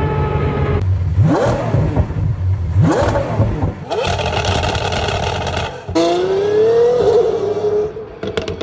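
High-performance car engine revving hard in several short, cut-together clips: quick sharp rises in pitch, a stretch of steady high-rev running, then an engine climbing in pitch as a car pulls away.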